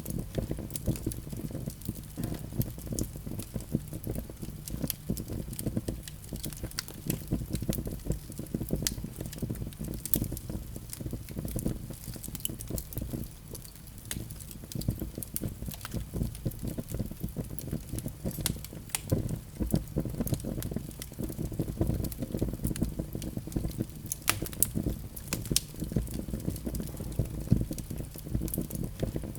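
Wood fire in a fireplace crackling, with irregular sharp snaps over a steady low rumble.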